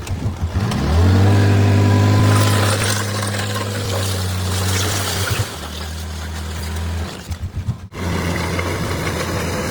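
Bulldozer's diesel engine revving up about a second in, then running hard and steady before dropping to a lower pitch around the middle. The sound breaks off briefly near the end, then the engine is heard again.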